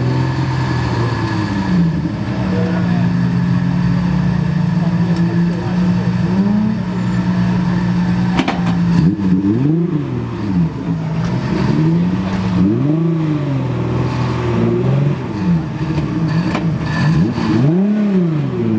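Nissan 240SX's swapped twin-turbo VR38DETT V6 engine revving hard. It holds a steady high pitch for several seconds, then swings up and down in a run of sharp rises and falls, about one a second.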